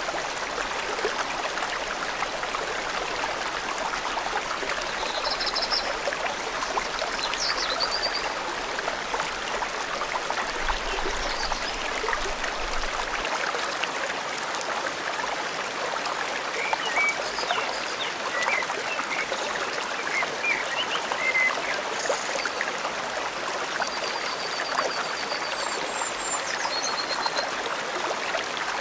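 A river flowing steadily through the forest, with small birds chirping now and then above it and a couple of quick high trills near the end.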